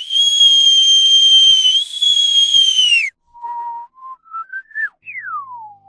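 Whistling sound effects: one long, steady high whistle for about three seconds that sags and falls away at the end. Then a few short notes step upward in pitch, and near the end a whistle glides down.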